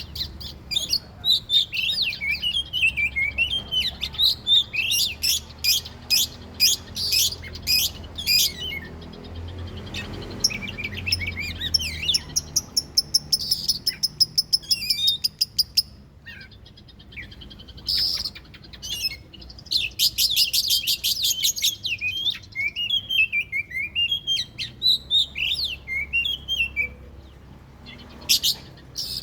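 Oriental magpie-robin (kacer) singing a fast, varied song of whistled and sweeping notes, broken by quick runs of rapidly repeated notes and a few short pauses.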